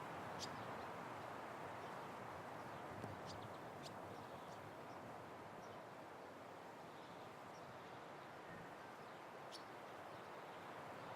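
Steady wind blowing across open country, a soft even rush, with a few brief faint bird chirps over it: once right at the start, a pair about three to four seconds in, and one more near the end.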